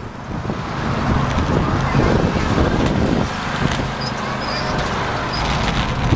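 Trackless train running as it drives, its engine giving a steady low drone.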